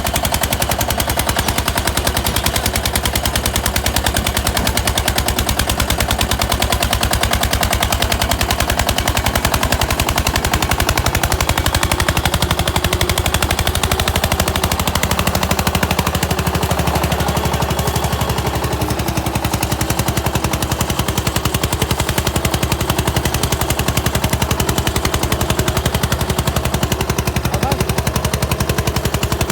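Eicher tractor's diesel engine working hard under a heavy load, its exhaust giving a fast, even, machine-gun-like train of loud beats.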